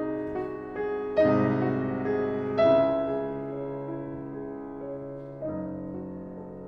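Slow, soft piano music: sustained chords that ring and fade, with notes struck anew about a second in, again near three seconds, and once more past five seconds.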